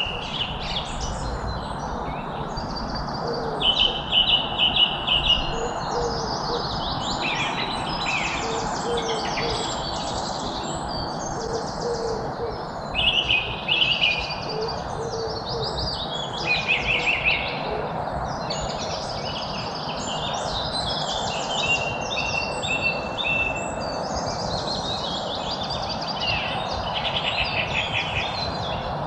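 Several birds singing at once, with overlapping high chirps, trills and rapid warbling phrases, over a steady background hiss. A short low call repeats about once a second through the first half.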